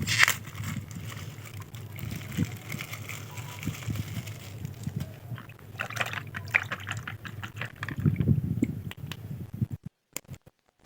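Water sloshing and trickling, with small knocks and clicks of handling, that cuts out suddenly near the end.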